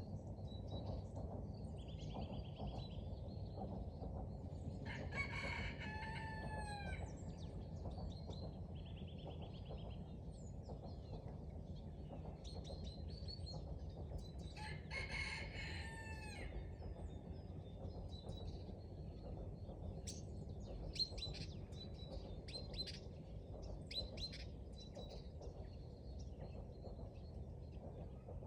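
A rooster crowing twice, each crow about a second and a half long and falling in pitch at the end, with small songbirds chirping and trilling around it over a steady low background noise.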